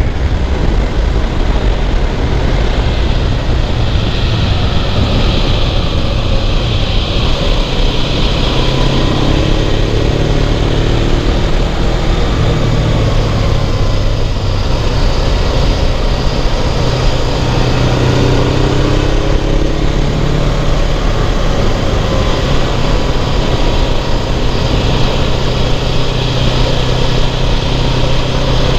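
Suzuki GS500F's parallel-twin engine running while riding, its revs rising and falling again and again through the corners, over steady wind noise.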